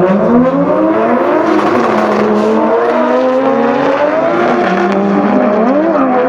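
Two Nissan S13 drift cars' engines revving hard as they launch together and accelerate away, their pitches climbing, dropping and crossing each other with throttle and gear changes.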